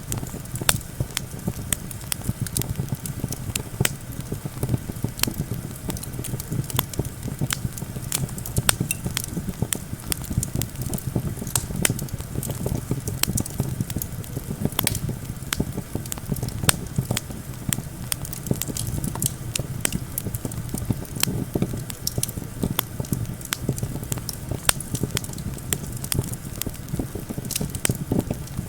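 Wood campfire crackling, with frequent irregular sharp pops, over a steady low rumble of wind.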